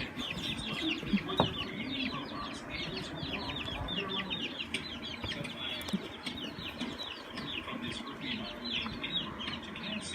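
Chickens peeping and clucking: a constant stream of short, high, falling peeps over lower clucks, with a brief louder knock a little over a second in.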